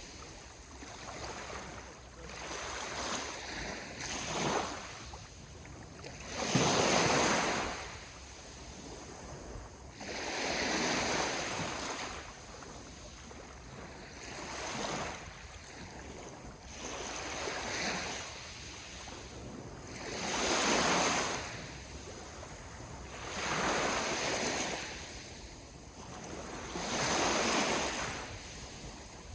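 Sea waves breaking on the shore: each wave swells into a rush of surf and fades away, one every few seconds, the biggest about seven seconds in.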